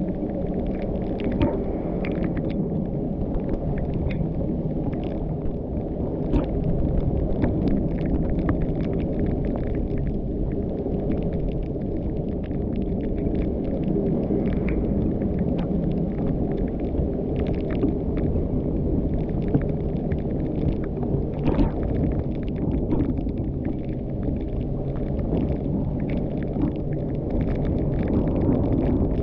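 A car driving along a road: a steady low engine hum and road noise, with scattered small clicks and knocks throughout.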